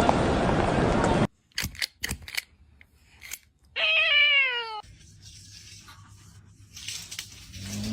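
A domestic cat meows once, a single slightly falling meow about a second long near the middle, after a few short clicks. Before that, a steady rushing noise cuts off suddenly.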